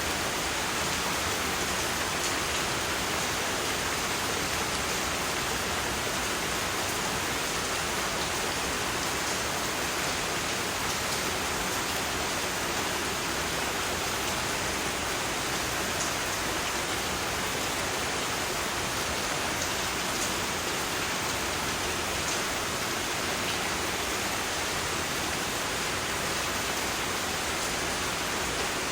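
Steady rain falling, an even hiss with faint scattered drop ticks and no change in level.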